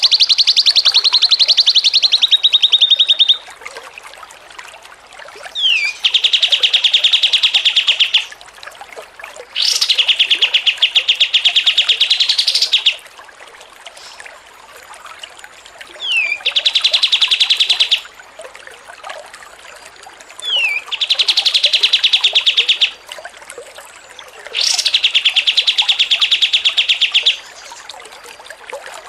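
Small songbird chattering in a rapid, even trill, in bouts of two to three seconds repeated every few seconds; several bouts open with a short falling note. This is the continuous 'ngocor' chatter used as masteran to teach caged songbirds.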